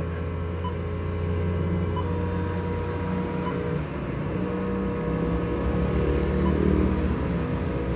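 Honda City's engine idling, a steady low hum heard inside the cabin, with a few short faint beeps from the touchscreen head unit as it is pressed.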